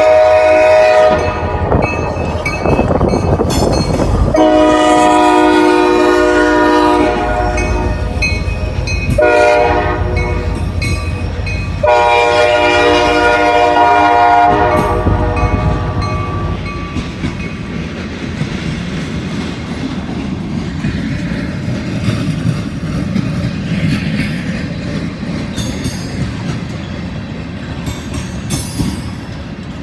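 Diesel locomotive air horn sounding the grade-crossing signal: two long blasts, a short one and a final long one. After the horn the train's wheels rumble and clack over the rail joints as the cars roll past, slowly fading.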